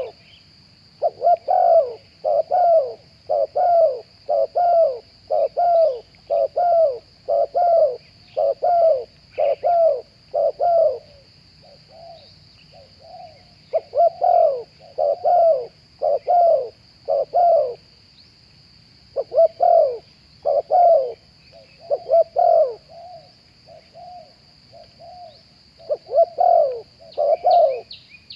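Spotted doves cooing: runs of short, falling coo notes about two a second, with brief lulls between runs. A faint steady high-pitched insect drone runs beneath.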